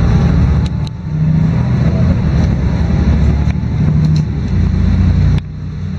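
LiAZ-5292.22 low-floor city bus running under way, its engine drone heard from inside the passenger cabin with short rattles and clicks. The engine sound dips briefly about a second in and again near the end.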